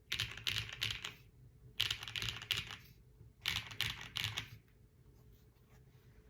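Qwertykeys QK80 mechanical keyboard with Hyacinth V2U switches being typed on: three quick runs of keystrokes about a second each, then only a few faint, scattered key clicks.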